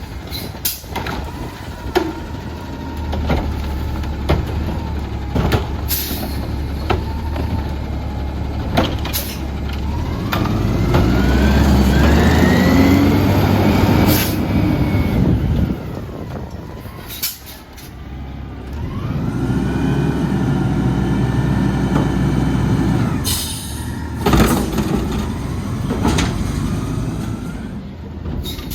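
Autocar ACX garbage truck with a McNeilus Contender body running, its engine speeding up twice for several seconds each with a rising pitch, then settling back. Sharp clanks and short hisses come through throughout.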